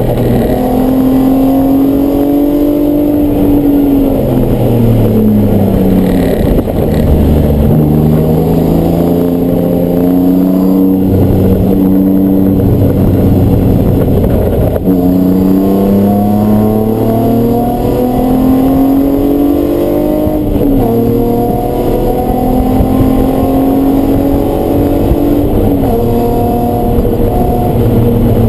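Race car engine running hard, its pitch climbing under acceleration and falling away again several times, with a sudden jump in pitch about halfway through.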